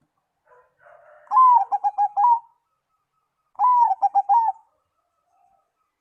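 Zebra dove (perkutut) cooing: two phrases about two seconds apart, each an opening drawn-out note followed by a quick run of short staccato coos.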